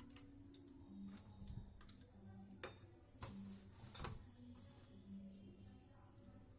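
Faint, scattered light clicks and taps of kitchen utensils being handled while butter is added to the batter, over a low hum that comes and goes.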